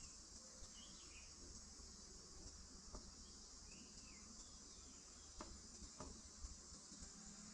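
Faint, steady high-pitched insect chorus, cricket-like, with a few soft bird chirps and a few light clicks.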